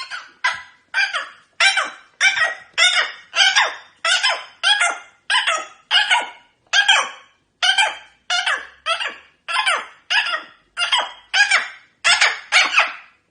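A parrot calling over and over in short, harsh squawks, about twenty of them at a steady pace of a little under two a second.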